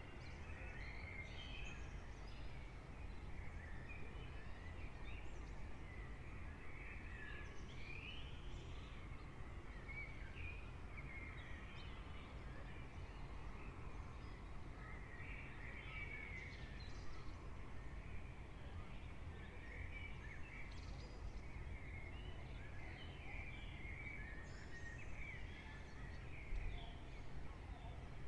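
Early-morning dawn chorus: several songbirds chirping and trilling continuously over a steady low background rumble.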